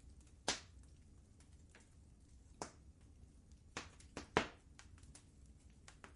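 Wood fire crackling in a fireplace. Irregular sharp pops sound over a low, steady rumble, with a strong pop about half a second in and a quick cluster of pops around four seconds, the last of them the loudest.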